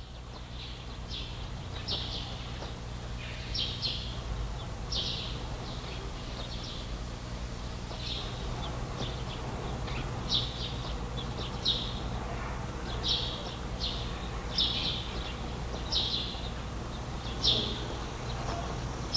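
Small bird chirping: short, high chirps repeated every second or two, over a steady low hum.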